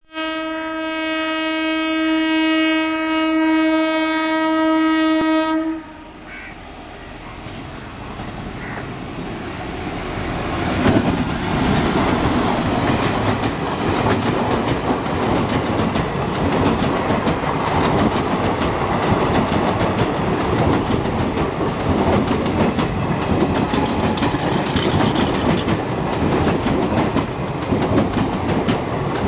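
WAP4 electric locomotive's horn sounding one long steady blast for about six seconds, cut off sharply. Then the express train's coaches run past close by, the wheel clatter over the rail joints growing louder and steady, as the train slows for a halt.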